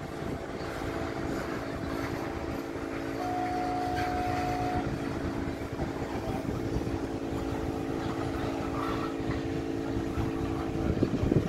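A BNSF coal train's cars rolling past: a steady rumble of wheels on rail with a steady hum throughout, and a brief higher whine a few seconds in.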